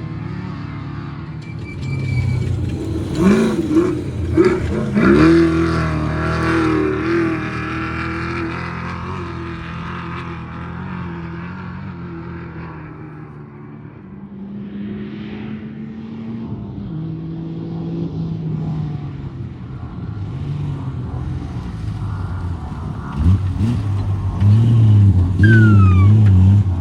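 Off-road race vehicle engines revving and passing, the engine note rising and falling. The revving is loudest a few seconds in and again near the end.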